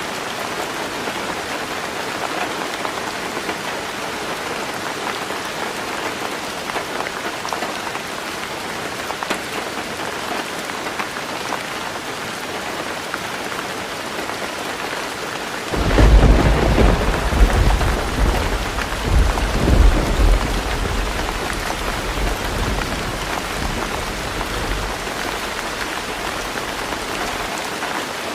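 Heavy rain drumming steadily on a tin roof. About halfway through, thunder breaks in suddenly with a deep rumble that swells again a few seconds later, then dies away while the rain keeps on.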